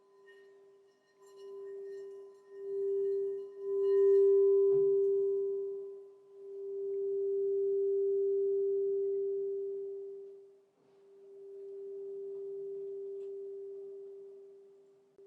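Crystal singing bowl sounding one steady low tone that swells and fades in repeated waves, the swells growing longer after the first few seconds. A light knock comes about five seconds in.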